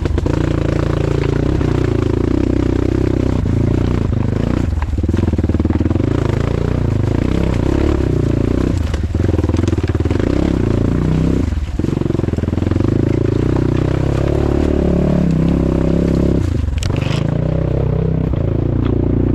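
Off-road motorcycle engine running under load on a trail, its revs rising and falling with the throttle and cutting back sharply four times.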